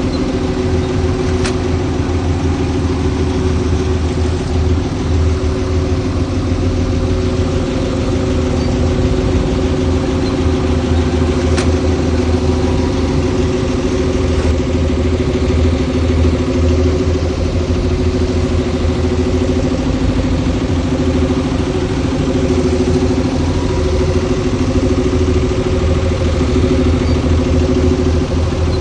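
Heavy machine's diesel engine running steadily at an even speed, with a couple of faint clicks.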